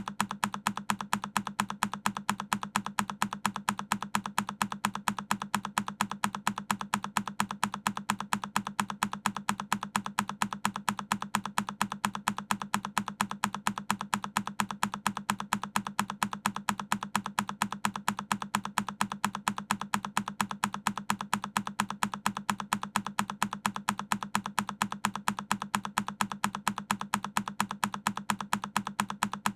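A single key on a Keychron K10 mechanical keyboard clicking over and over, as one key-press sound repeated at an even, machine-regular pace several times a second.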